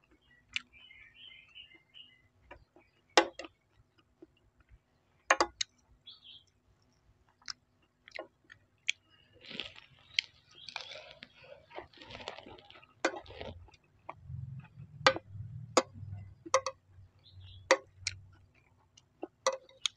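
Close-up chewing of crispy fried rice, with a metal spoon clinking sharply against the plate every second or two.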